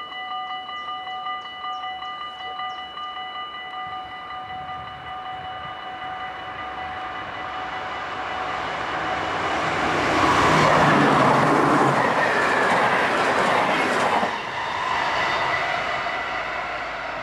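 Level-crossing warning bell ringing in a fast, steady pulse. Then an NS Koploper electric multiple unit approaches and passes at speed, its wheel and rail noise building to a peak about ten seconds in and dropping off suddenly near fourteen seconds.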